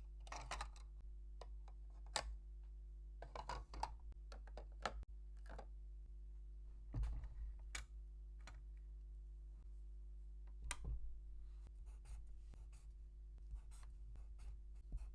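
Small plastic toy pieces being handled: scattered light clicks, taps and short scrapes, irregular and a few seconds apart.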